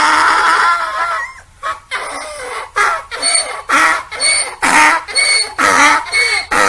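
Donkey braying: one long, pitched call, then a run of quick alternating hee-haws at about two a second.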